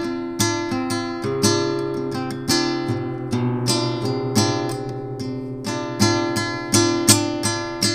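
Acoustic guitar strummed and picked in a steady rhythm, several strokes a second, an instrumental passage of a song without singing.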